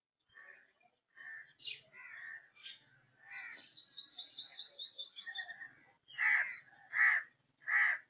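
Birds calling: scattered chirps and a fast, high trill of about ten notes a second, then three loud, evenly spaced calls near the end.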